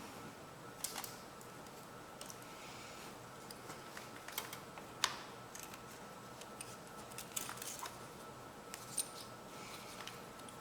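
Faint, scattered clicks and light metallic taps of hand tools being handled while working on a stripped bolt, with one sharper click about five seconds in.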